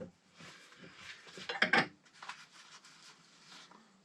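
Tools and metal parts being handled on a workbench, with a louder clatter about a second and a half in and quieter handling before and after.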